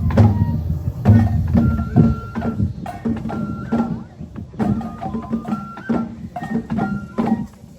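Japanese festival music for a lion dance: a high flute playing short held notes over regular drum strikes.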